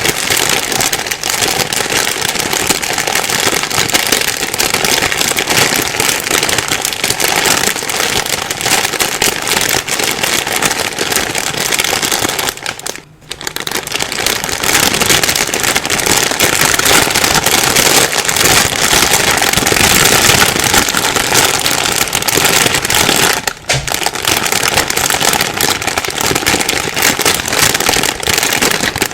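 Plastic bag being crumpled and rustled continuously: a dense, crackling crinkle. It stops briefly about halfway through and dips again for a moment about four-fifths of the way through.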